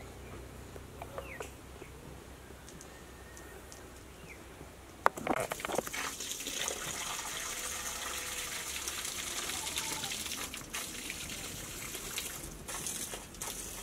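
Water running or pouring steadily, beginning just after a sharp knock about five seconds in; a few faint chirps are heard before it.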